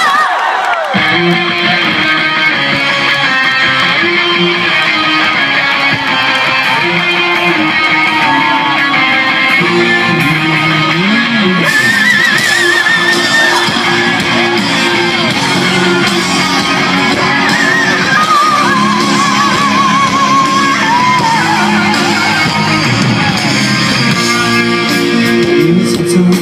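Rock band playing live through a concert PA: a wavering electric-guitar lead over stepping bass and band accompaniment, the full band coming in about a second in. It is the instrumental intro before the vocals begin.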